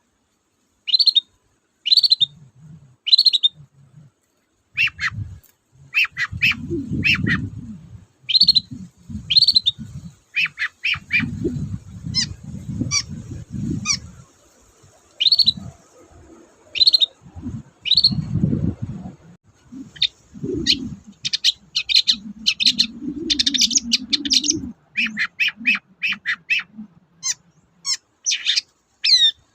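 Long-tailed shrike (cendet) singing: short, sharp high notes repeated in spaced phrases, running into a fast, dense string of notes near the end. Low thuds and rumbles sound underneath at several points.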